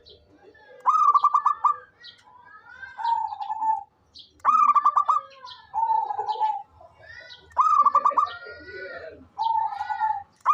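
Zebra dove cooing. Its phrase is a fast stuttering run of notes followed by a lower drawn-out coo, and it comes three times, about every three seconds. Fainter, higher chirps from small birds sound in between.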